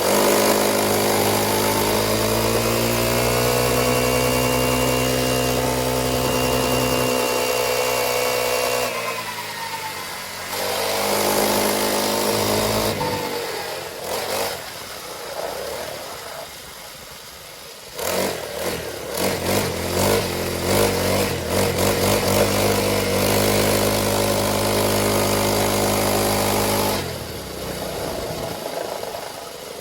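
Motorcycle engine running under way, its pitch climbing and holding steady as the bike accelerates and cruises, then dropping away as the throttle is closed, twice. A quieter, rougher stretch in the middle is followed by a choppy, uneven patch before it settles into a steady run again.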